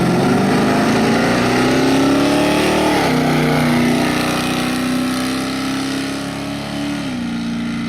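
V8 engine of a 1983 Chevy C10 pickup with glasspack mufflers accelerating hard down a drag strip: revs climb, drop sharply at an upshift about three seconds in, climb again, and drop at a second shift near the end.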